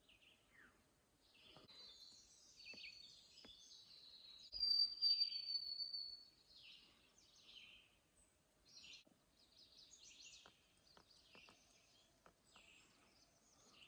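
Songbirds singing and calling, faint. About four and a half seconds in, one clear high whistled note is held for roughly a second and a half, falling slightly in pitch. A few faint ticks are scattered through.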